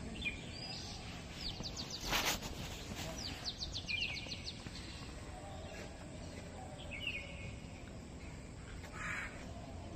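Birds chirping in quick runs of high notes several times over a steady outdoor background hum, with a brief louder rush of noise about two seconds in.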